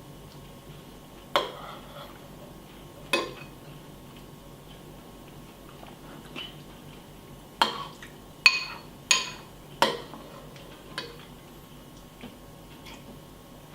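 A spoon clinking against a cereal bowl about eight times at irregular intervals, each clink sharp and briefly ringing, with the quickest run of clinks a little past the middle.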